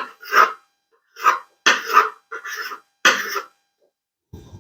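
Rolled-out chin chin dough being worked on a board: short scraping strokes, about two a second, ending with a soft thud near the end.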